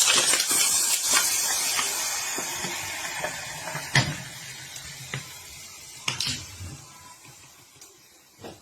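A hissing rush of water that fades steadily over several seconds, with a few sharp knocks, the loudest about four seconds in.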